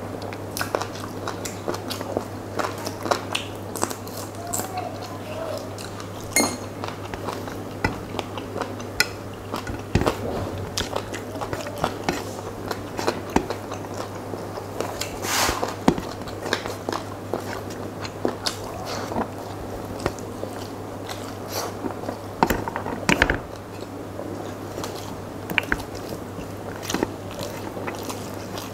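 Close-up chewing and wet mouth sounds of a man eating rice and curry by hand, with irregular smacks and clicks, and fingers squishing and mixing rice on a steel plate. A steady low hum runs underneath.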